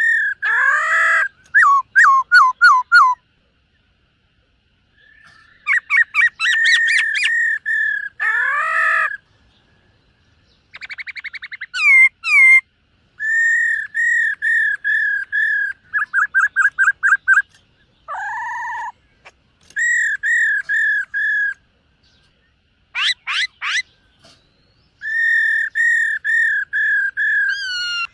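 Black-throated laughingthrush singing: loud, clear whistled phrases of repeated notes, quick falling sweeps and a fast trill, with short pauses between phrases.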